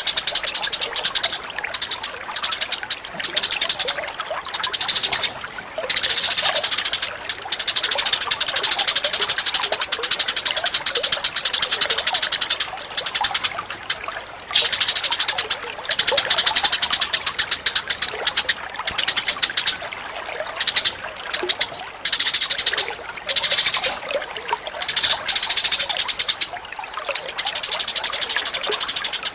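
Recorded wild-bird calls played as a masteran training track: loud, rapid, high chattering trills in bursts of one to three seconds with short breaks between them.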